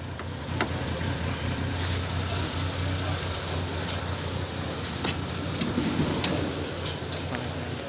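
A motor vehicle engine idling steadily, with a few light clicks over it.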